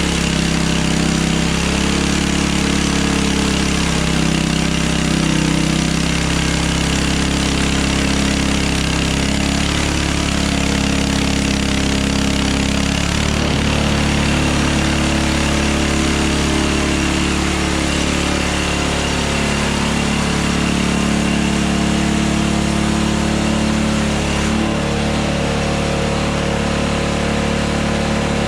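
Hudson Hunter bandsaw sawmill's engine running steadily, its pitch shifting slightly twice, around the middle and near the end.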